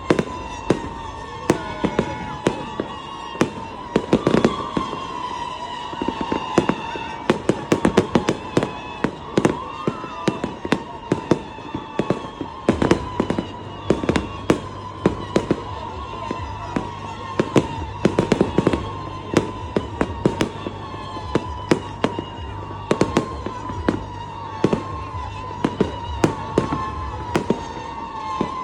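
Fireworks display: a dense, continuous run of sharp bangs and crackles, several a second.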